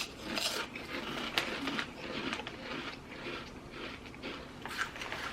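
Wavy crinkle-cut potato chips being bitten and chewed, a run of irregular crunching crackles.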